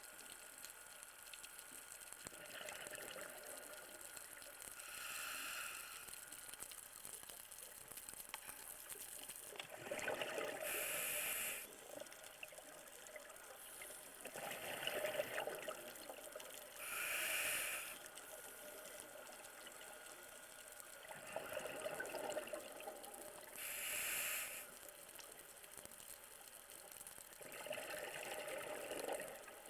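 A scuba diver breathing through a regulator: a hiss on each inhale, then a burst of exhaled bubbles, repeating about every six to seven seconds.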